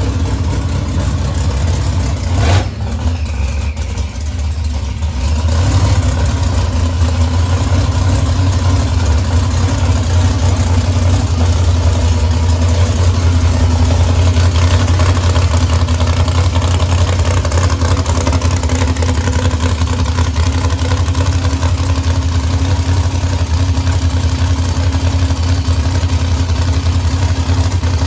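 Ford V8 engine of a drag car running at a steady idle, loud and low-pitched, with a short dip in level about two and a half seconds in.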